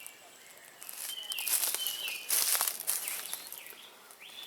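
Footsteps rustling and crunching through dry leaf litter, loudest from about a second in until near the end, with small birds chirping.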